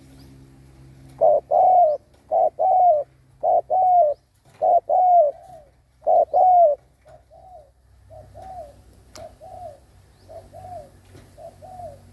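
Spotted dove (cu gáy) decoy cooing in short, quick notes that come mostly in pairs, each dipping slightly in pitch. The coos are loud from about a second in, then grow fainter after about seven seconds, with one sharp click near nine seconds.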